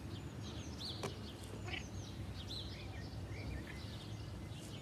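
Small songbirds chirping and twittering in quick short calls over a steady low background rumble, with one sharp click about a second in.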